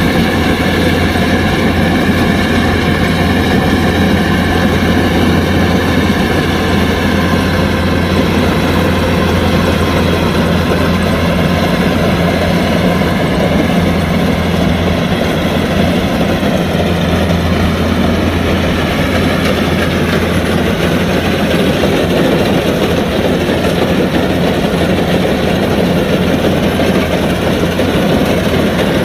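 Kubota DC-105X combine harvester running steadily: a low diesel engine drone under dense mechanical noise from its working machinery.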